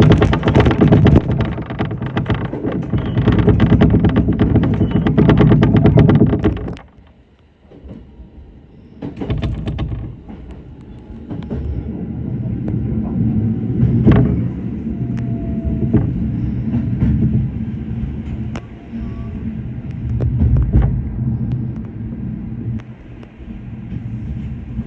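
Electric train running on the line, heard from the front of the train. For the first several seconds there is a loud rumble full of rapid clicking; it drops off abruptly, then gives way to a quieter steady run with a faint whine and occasional single clicks of wheels over rail joints.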